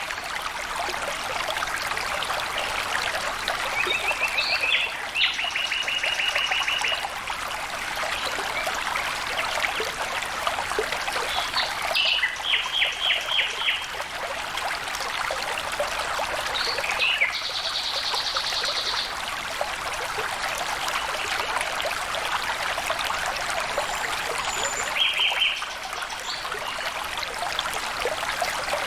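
Stream water trickling and babbling steadily, with four short runs of rapid, high, trilled calls from a bird breaking in.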